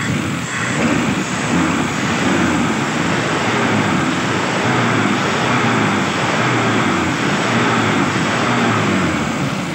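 Mitsubishi Lancer box type's carbureted four-cylinder engine running at idle, smooth and even, just after its carburetor was refitted with a working idle solenoid and secondary. A tone in it repeatedly sweeps down in pitch.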